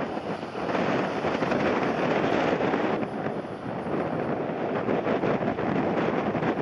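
Strong, gusting wind buffeting the microphone: a dense rush of noise that swells and eases, dipping briefly near the start and again about three seconds in.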